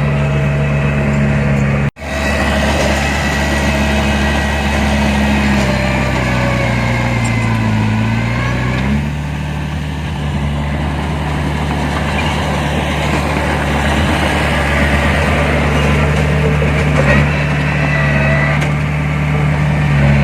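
Heavy diesel engine of earthmoving machinery running steadily; its pitch sags and comes back up about six to nine seconds in. The sound cuts out for an instant about two seconds in.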